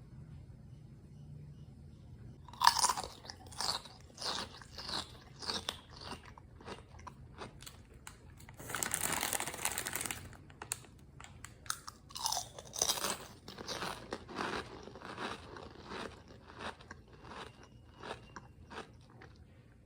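A person biting into and chewing Mang Juan Chick'n Skin snack chips: a loud crisp bite about two and a half seconds in, then a run of crunching chewing strokes. About nine seconds in comes a second and a half of dense crackling noise, and a second bite about twelve seconds in is followed by more crunchy chewing.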